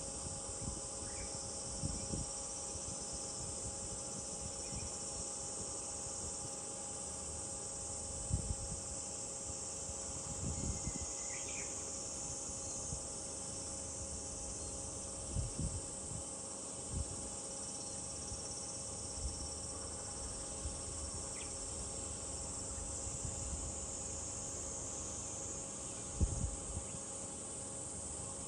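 Summer cicadas shrilling in a steady high-pitched chorus, with a few scattered low thumps, the loudest near the end, and one short chirp near the middle.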